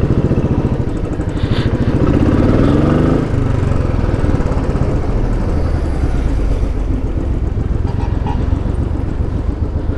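Royal Enfield Bullet 500's single-cylinder four-stroke engine running with its steady low thump, rising in pitch briefly about two to three seconds in.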